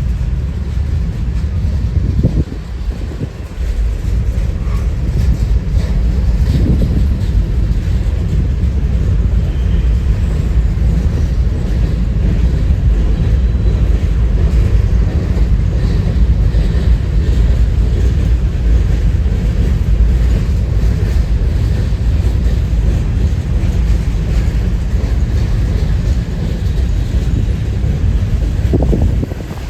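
Strong wind buffeting the microphone in a loud, steady low rumble, with a short lull about three seconds in.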